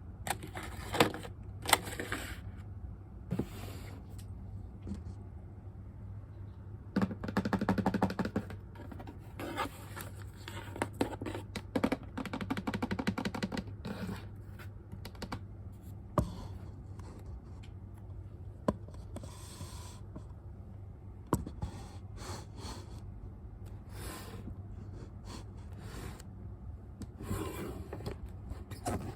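Packaging handled by hand during an unboxing: rustling, scraping and scattered clicks and taps. Two stretches of fast, even rasping stand out, about seven and twelve seconds in, over a low steady hum.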